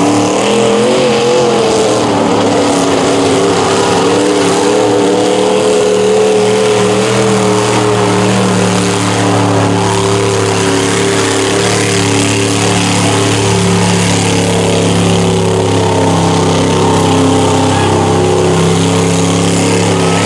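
A lifted mud truck's big engine running wide open at high, nearly steady revs through a deep mud bog pit, with little change in pitch.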